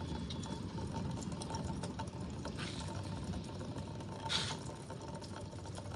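Rainwater running steadily through a gutter, with a brief sharper splash or click about four and a half seconds in.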